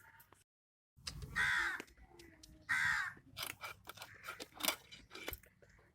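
A crow cawing twice, each call about half a second long, with small clicks and scrapes between the calls.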